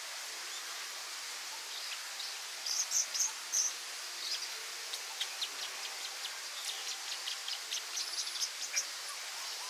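Small birds chirping in short, high notes over a steady background hiss. There is a cluster of chirps about three seconds in, then a run of quick, short chirps through the second half.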